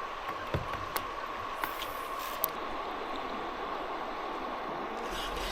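River water rushing steadily, with a faint steady hum and a few light clicks in the first couple of seconds.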